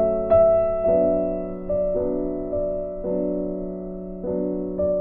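Soft background piano music: sustained chords and single notes struck about once a second, each fading away.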